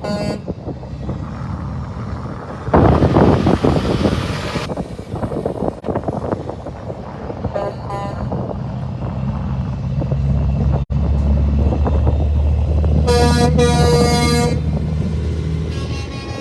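Semi trucks in a convoy moving off: a loud rushing burst about three seconds in, then a short horn toot. A heavy truck engine's low rumble builds, and a truck horn sounds for about a second and a half near the end.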